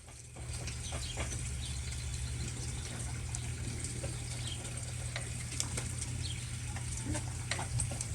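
Chickens moving about and pecking, with scattered short clicks and brief soft sounds, over a steady low hum.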